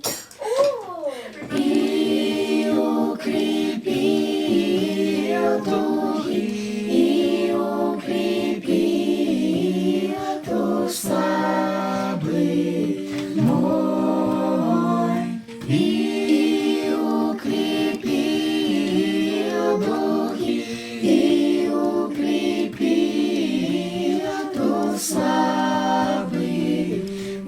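Several voices singing a slow song together in harmony without instruments, a cappella, with a brief break about fifteen seconds in.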